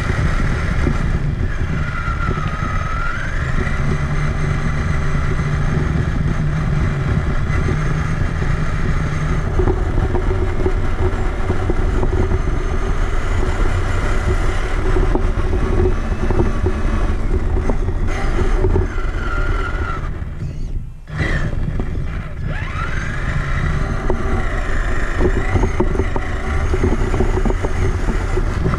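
Traxxas Summit RC truck driving, heard from a camera mounted on the truck: its electric motor and gearbox whine rising and falling in pitch with the throttle, over a constant rumble from the tyres and chassis. The sound briefly drops away about twenty seconds in, then picks up again.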